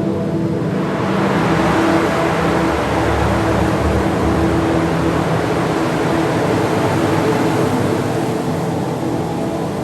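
An art installation's wind machine blowing: a loud rush of air that swells about a second in and eases near the end, over a steady mechanical hum.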